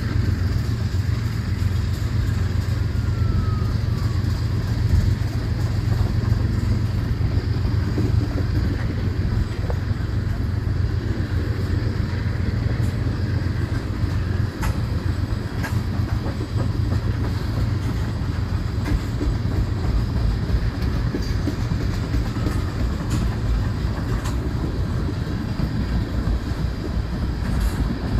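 Freight train of railroad tank cars rolling past at speed: a steady low rumble of steel wheels on rail, with occasional sharp clicks as the wheels cross joints.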